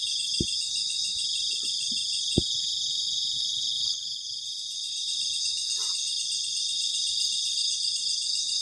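Crickets chirping in a very loud, steady night chorus of fast pulsing trills. Two short sharp pops sound, about half a second and two and a half seconds in.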